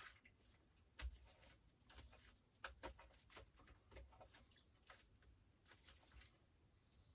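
Near silence with faint, scattered small clicks and taps; the loudest comes about a second in.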